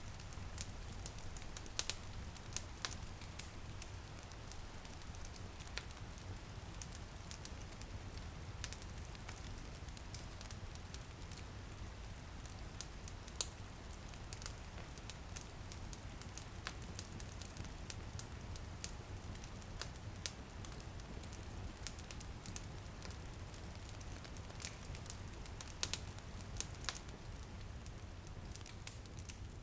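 Wood fire crackling, with frequent sharp pops and snaps at irregular moments over a steady low rumble of the flames, together with light rain pattering on a window.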